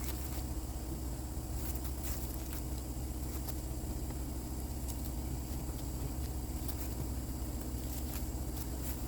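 A steady low machine hum with a thin high whine, overlaid by scattered light clicks and scrapes.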